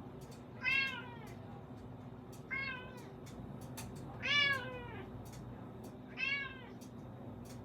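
Domestic cat meowing four times, about two seconds apart, each meow rising and then falling in pitch.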